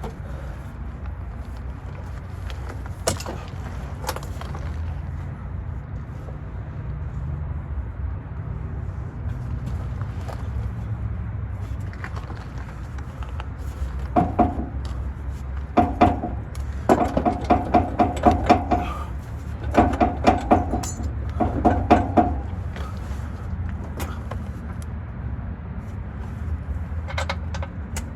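Steady low rumble, with rapid runs of ringing metal-on-metal clanks from about halfway in, in five short bursts over some eight seconds: tools working on a vehicle's transmission to pull it free.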